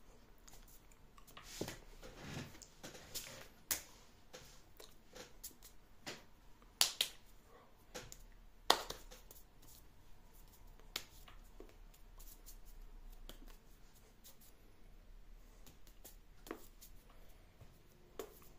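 Irregular light clicks and knocks, a few dozen over the span, with two sharper knocks standing out about seven and nine seconds in.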